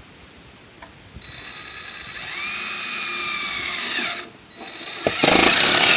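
Cordless power driver running metal roofing screws into sheet-metal roofing. There is one run of about three seconds with a whine that rises and then sags in pitch as the screw bites. Near the end comes a louder, shorter burst.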